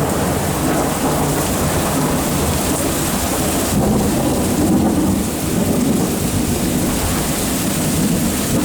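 Steady rain falling with thunder rumbling low and continuously, swelling slightly about halfway through.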